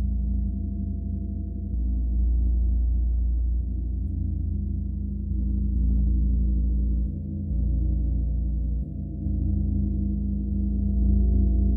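Gong ringing in a low, sustained hum of many overlapping tones, its loudness swelling and easing every couple of seconds as it is kept sounding.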